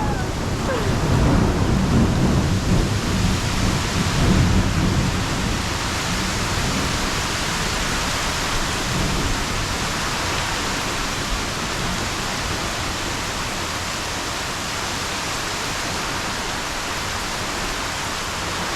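Heavy rain pouring steadily, with a low rumble of thunder in the first few seconds that fades away, leaving the rain alone.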